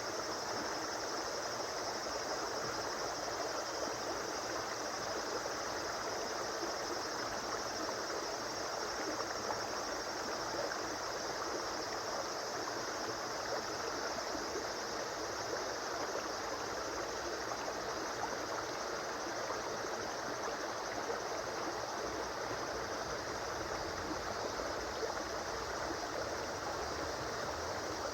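A river or stream flowing, a steady rushing of water over stones with no change in level.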